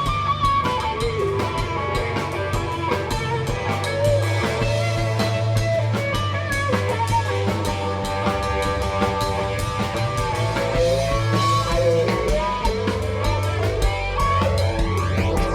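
A rock band playing an instrumental passage: electric guitar lines over bass and a drum kit with busy cymbal strokes.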